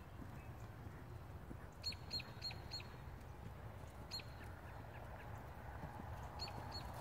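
A bird chirping in short, high-pitched calls: a quick run of four about two seconds in, a single one near the middle, and two more near the end, over a faint steady low rumble.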